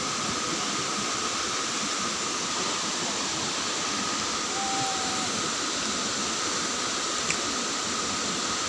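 Galaboda waterfall, steady rushing water, with a short whistled note about halfway through and a small click near the end.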